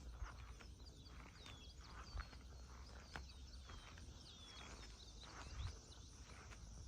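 Faint outdoor ambience of small birds chirping over and over in short, falling calls, with a few light clicks scattered through.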